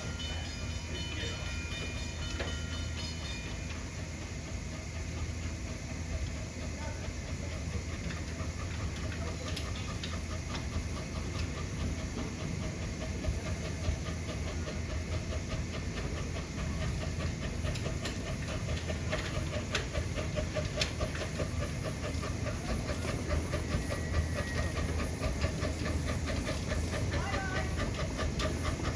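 Steam train running on the track, its steam hissing over a steady low rumble. A fast, even clicking grows stronger partway through.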